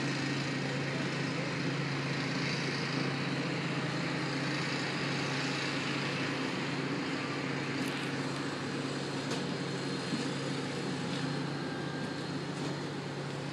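Metra commuter train at the platform: a steady low hum from the train's engine and equipment over a broad rumble that eases slightly in the second half, with a few sharp clicks.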